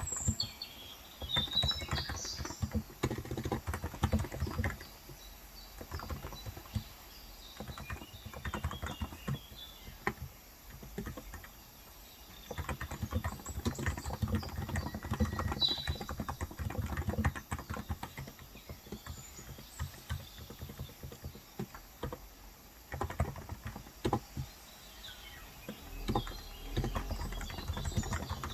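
Typing on a Cox Endeavor electro-capacitive tenkeyless keyboard with 35 g switches: runs of rapid keystrokes broken by short pauses. Faint bird chirps sound in the background, at the start and about midway.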